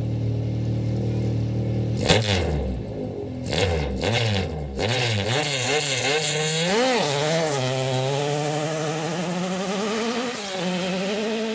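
Car engine idling, then a bang and a run of quick revs up and down with sharp pops, then held steady at high revs, dipping briefly near the end.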